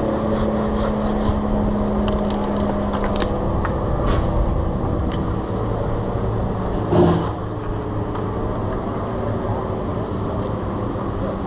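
An engine running steadily under heavy wind noise on the microphone, its pitch dropping to a lower steady note about four seconds in, with scattered light clicks and a brief louder rustle about seven seconds in.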